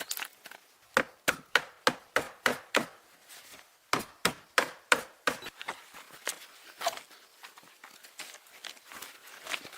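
A tool striking wood in quick runs of sharp knocks, about three a second, with lighter, scattered knocks in the second half.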